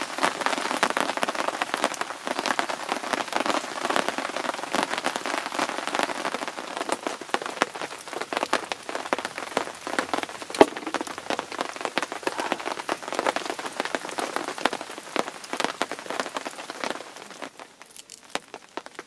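Food sizzling and spattering as it fries over heat, a dense, steady crackle that dies away sharply near the end.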